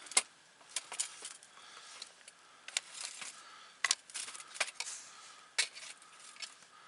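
Wood campfire crackling: irregular sharp pops and snaps over a low hiss, the loudest crack just at the start.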